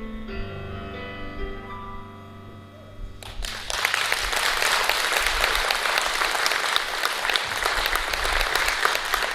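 Piano music ends on held chords. About three seconds in, an audience starts applauding and keeps clapping steadily.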